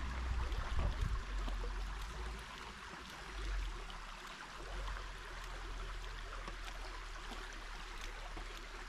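Creek water running in a steady hiss, with a low rumble underneath.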